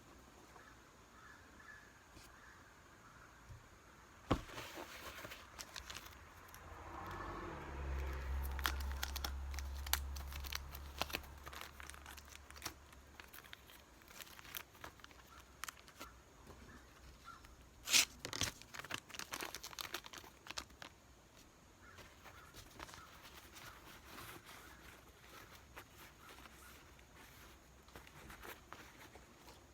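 Hand-handling noises while a new rubber seal is worked onto an oil drain plug: scattered small clicks and crinkling, with one sharp click about eighteen seconds in. A low steady hum comes in about seven seconds in and fades out around thirteen seconds.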